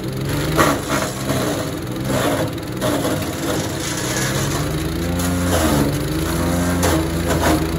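Power King wood chipper's gas engine running under load while pine wood is fed through and chipped, with crunching of the wood. The engine pitch sags and recovers several times as the wood bites.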